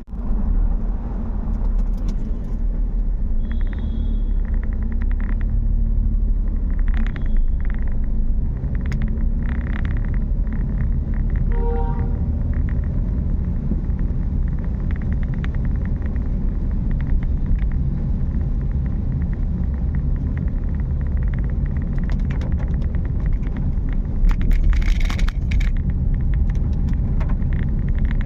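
A car driving on rain-wet roads, heard from inside the cabin: a steady deep rumble of engine and tyres, with scattered light clicks and taps. About halfway through, a brief horn-like tone sounds, and a louder hissing stretch comes near the end.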